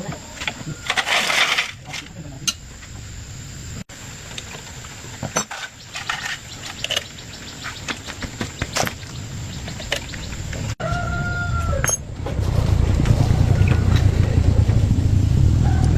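Scattered metallic clicks and taps of hand work on the motorcycle, a rooster crowing about two thirds of the way in, then the motorcycle's engine running with a steady low rumble over the last few seconds, with a second crow near the end.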